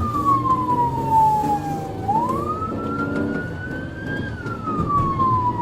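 Police car siren on a slow wail. It falls in pitch, rises again about two seconds in, and falls once more near the end, with the patrol car's engine and road noise underneath.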